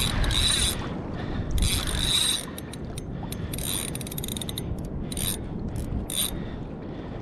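Fishing reel being cranked in repeated bursts, its gears whirring and clicking as line is taken up on a hooked fish that has swum up toward the kayak. A steady low rumble runs underneath.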